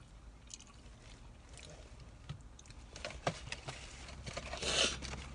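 Low steady rumble inside a car, with scattered small clicks and crackles and a short rustle near the end.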